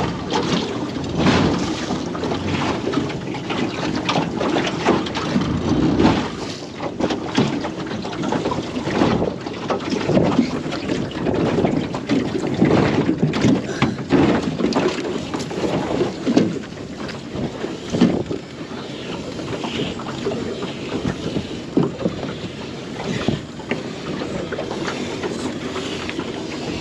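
Irregular knocks and clatter from crab pots being handled against a small aluminium tinny, over wind on the microphone.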